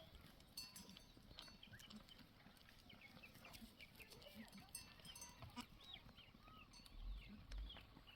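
Faint farm-animal calls: many short, high peeps scattered throughout. Two low thumps come near the end.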